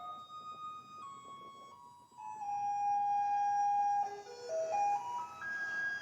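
Taiwanese garbage truck's electronic jingle playing from its loudspeaker, a simple tinkling tune of clear single notes that announces the truck is coming for rubbish collection. About halfway through it holds one long note, then runs quickly up a scale near the end.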